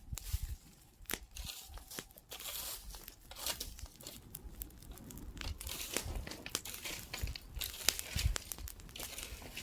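Wood bonfire crackling, with irregular sharp pops and snaps over a hissing burn.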